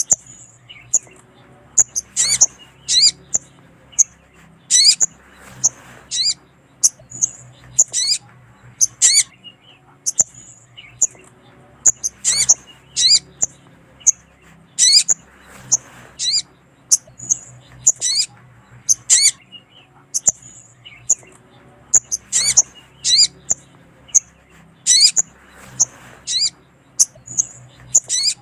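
Sogon (sogok ontong) calls, a female calling a male: sharp, high chirps repeated without a break in quick pairs and short runs, one to three a second. It is used as a lure call for wild sogon and as a master recording to set caged birds singing.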